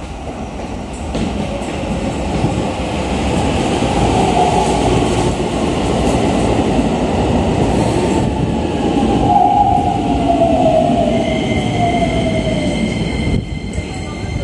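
Keikyu New 1000 series stainless-steel electric train arriving and braking to a stop at the platform. The running noise of wheels on rail grows as it pulls in, a whine falls in pitch as it slows, and a thin high squeal joins in over the last few seconds.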